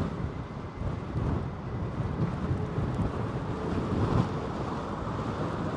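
Strong, gusty wind buffeting an outdoor microphone, giving a continuous low, fluttering rumble that rises and falls.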